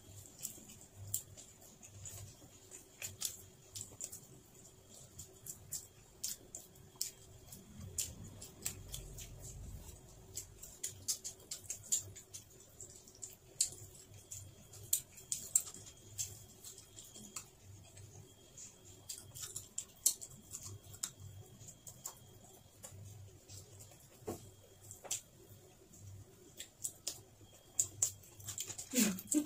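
Close-miked eating sounds: chewing and small wet mouth clicks and smacks, scattered irregularly, as grilled fish is picked apart with the fingers and eaten.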